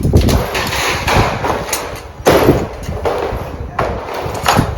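Sheet-metal ducting being cut and handled: a run of loud metal bangs and thuds, with three sharp hits at the start, about halfway through and near the end.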